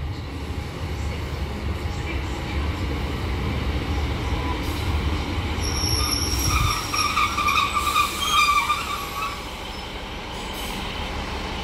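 Transport for Wales Class 153 diesel multiple unit pulling into the platform, its underfloor diesel engine and wheels rumbling low. From about five and a half seconds in, a brake squeal rises, several high tones held for about four seconds as the train slows.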